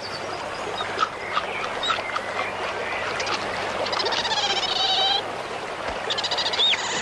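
Common ravens calling: a harsh, pulsing call about a second long that falls slightly in pitch, about four seconds in, and more of the same near the end, with a short rising whistle among them. Small chirps and clicks sound before the calls start.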